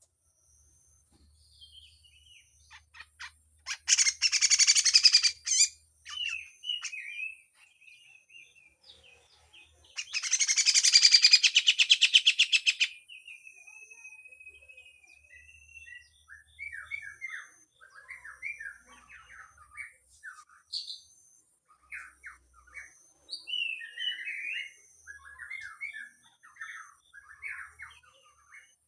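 Grey-cheeked bulbul (cucak jenggot) singing: two loud, harsh rattling bursts, the second about three seconds long, between short chirps and whistled notes.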